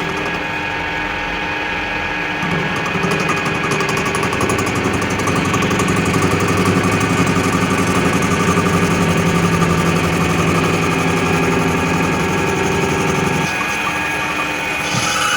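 A machine running steadily with a continuous mechanical hum. Its deeper part drops away about 13 seconds in.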